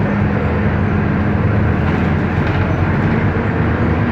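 Scania K310 IA articulated bus's diesel engine running steadily at an even pitch, with road and body rumble, heard from inside the bus.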